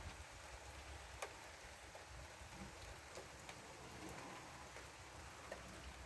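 Light rain falling, a soft steady patter with scattered single drops ticking close by, one sharper tick about a second in.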